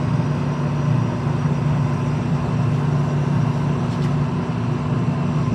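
Trane rooftop package air-conditioning unit running: a steady machine drone with a constant low hum.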